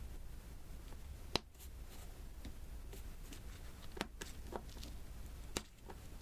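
Small diamond-painting beads being tapped one at a time onto the sticky adhesive canvas: soft, scattered clicks and taps, one sharp click about a second in and a few more close together near the end.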